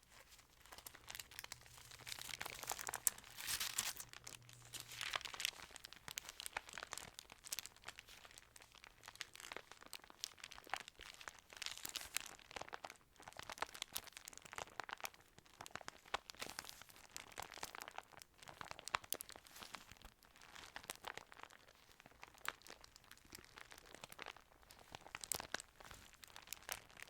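Thin Bible pages being handled and turned: crisp paper crinkling and rustling in irregular bursts, with small clicks.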